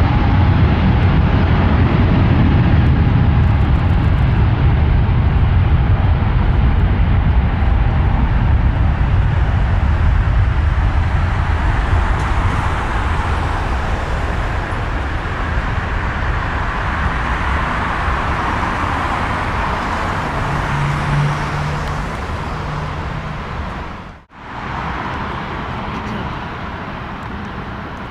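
Jet airliner taking off: a steady engine roar whose low rumble slowly fades as it climbs away. The sound drops out for a moment about 24 seconds in, then goes on.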